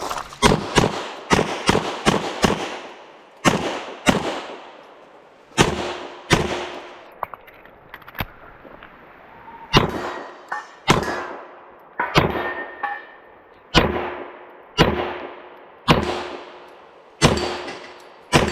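Pistol shots in a USPSA stage: a fast string of shots, then single shots about a second apart. Several of the later shots are followed by the ringing of steel targets being hit.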